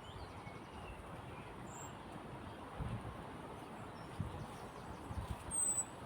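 Footsteps on a woodland path, low thuds about a second apart, loudest near the end, over a steady outdoor background rush, with a few brief high bird chirps.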